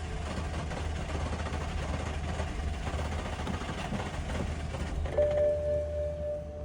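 A car engine being cranked by its starter without catching, a steady mechanical churning over a low hum. About five seconds in, a steady dashboard warning tone comes on and holds.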